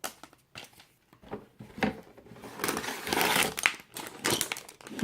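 Crinkling and rustling of Lego set packaging being handled: a few short rustles, then a denser, louder spell of crinkling from about two and a half to nearly four seconds in.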